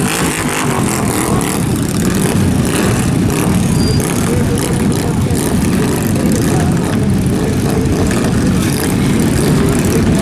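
Motorcycle engines running, loud and steady, with a wavering low engine note.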